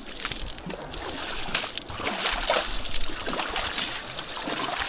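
Water splashing and spattering irregularly as a mud-caked motorcycle is washed down with spring water.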